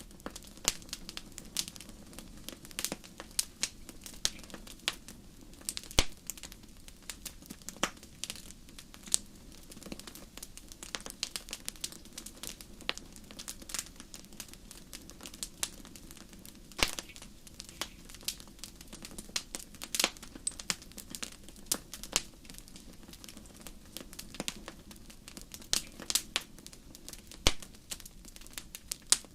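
Wood fire burning in a fireplace: irregular sharp crackles and pops, several a second, with a few louder snaps, over a soft steady rush of the flames.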